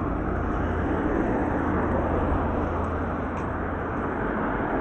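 Road traffic noise: a vehicle passing on the main road, heard as a steady rushing noise with a low hum.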